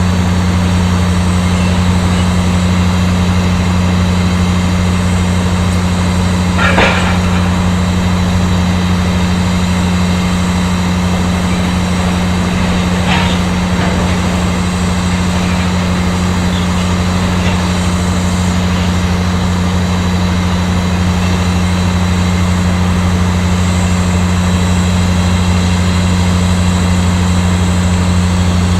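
Heavy mining machinery running with a steady low hum that does not change, with a short rattle about seven seconds in and a fainter one about thirteen seconds in.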